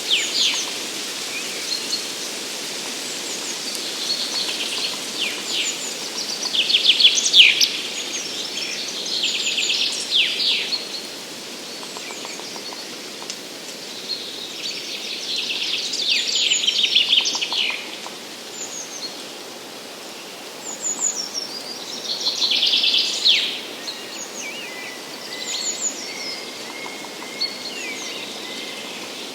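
Songbirds singing in a spring forest: a loud phrase of rapid notes comes back every several seconds, with softer calls between, over a steady rushing background.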